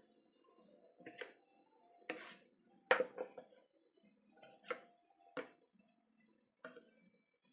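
Kitchen utensils clinking and knocking against bowls and dishes, about six separate knocks at irregular intervals, the loudest about three seconds in.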